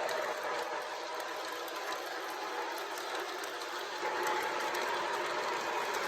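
MTH Propane Turbine model locomotive with four motors running at speed with a long train: a steady whir of motors and gearing with wheels rolling on track. A faint steady whine joins about four seconds in.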